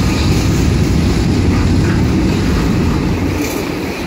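Train passing close by: a loud, steady low rumble that eases slightly about three seconds in.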